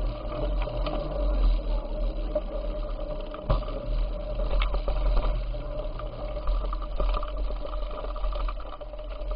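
Ride noise from a bicycle in motion: wind rumbling on the microphone, with a steady whine and scattered clicks and rattles from the bike.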